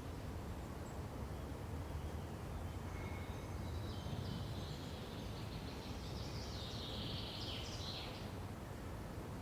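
Songbird singing in a pine forest: a few short high notes about a third of the way in build to a busier, denser phrase near the end. Under it runs a steady low background rumble.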